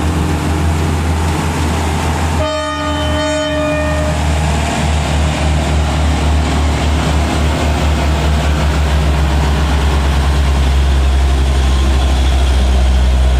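Heavy truck diesel engine labouring up a steep climb, a deep pulsing rumble that grows louder toward the end. A vehicle horn sounds once for about a second and a half a little over two seconds in.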